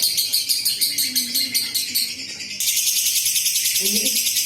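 Lovebird 'ngekek': a long, rapid, shrill chattering trill of about ten notes a second. It breaks off about two seconds in and resumes louder half a second later, with a faint voice underneath.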